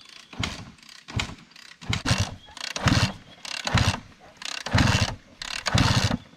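Flooded KTM dirt bike being kicked over again and again, about once a second. The engine turns over without catching, as the water in it keeps it from firing.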